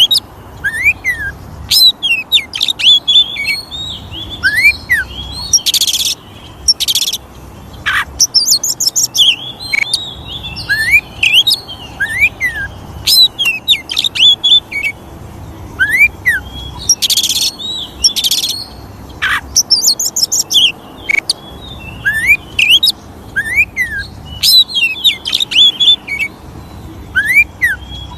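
Oriental magpie-robin (kacer) singing: clear rising and falling whistles mixed with short harsh, buzzy notes, in varied phrases that recur every few seconds.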